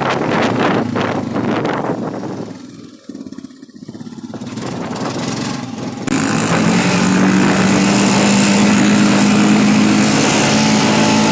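Gusting wind buffets the microphone for the first few seconds and briefly drops away. About six seconds in, the steady, multi-toned buzz of a quadcopter drone's spinning propellers starts abruptly and holds level.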